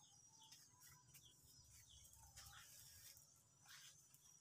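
Near silence: faint outdoor quiet with a few soft, short bird chirps.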